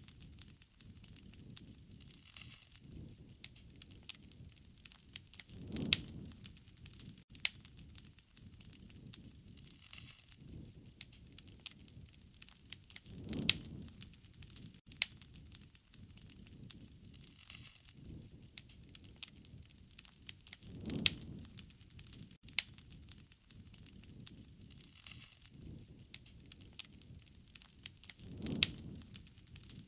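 Wood fire crackling and popping, with many sharp snaps and a low swell that rises and fades about every seven and a half seconds.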